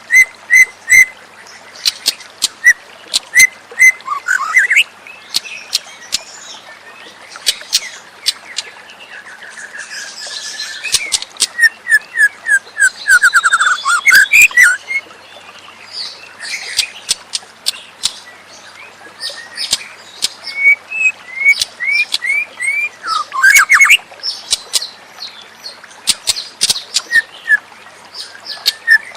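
White-rumped shama (murai batu) singing a varied song: short phrases of repeated whistled notes, sharp ticking notes, quick trills and falling glides, broken by brief pauses, over a faint steady hiss.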